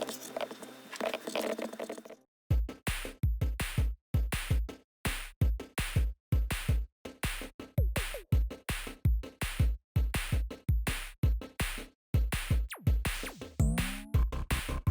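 Background music: an electronic track with a steady drum-machine beat and heavy bass hits, which comes in abruptly about two seconds in after a softer passage.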